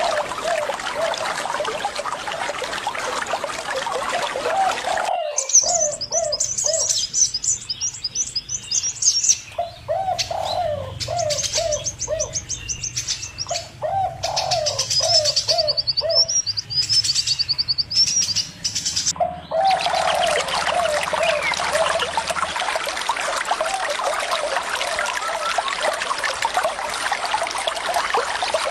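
Running water with birds calling over it. One bird repeats a low call in quick series throughout, and from about five seconds in high, rapid chirping joins it. The water sound drops out at the same moment and comes back abruptly near the two-thirds mark.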